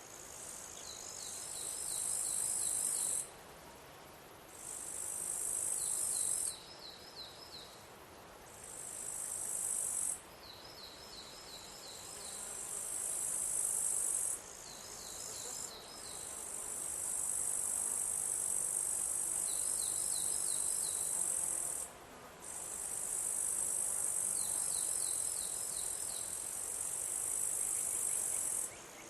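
High-pitched insect trilling that keeps starting and stopping in spells of two to six seconds, rising in loudness as each spell begins. Between spells, a short run of about six quick chirps at a lower pitch repeats every few seconds.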